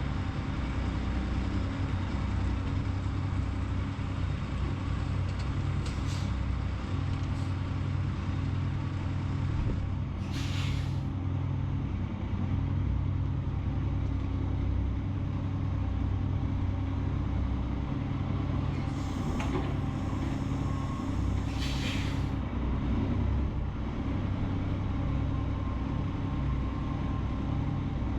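Semi-truck diesel engine running steadily, with several short bursts of air hiss from the air brake system.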